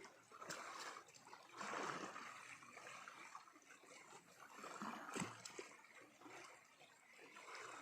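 Faint flowing stream water, gurgling unevenly, with a single short click about five seconds in.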